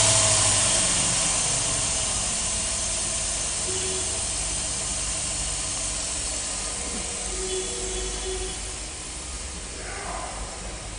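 The low hum of a 2002 Dodge Durango's 4.7-liter V8 stops about a second in. A steady hiss follows and slowly fades.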